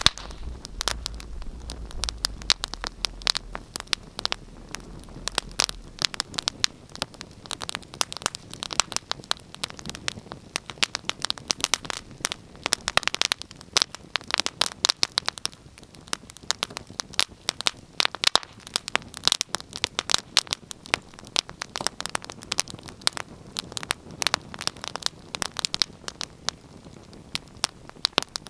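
Wood fire crackling, with dense, irregular sharp pops and snaps throughout.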